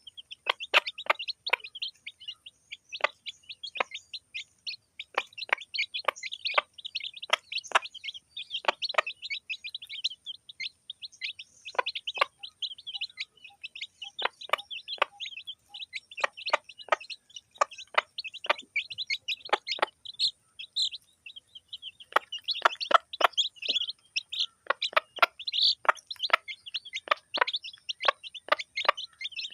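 Chicks peeping: a constant stream of short, high cheeps, joined by many irregular sharp taps of pecking at food.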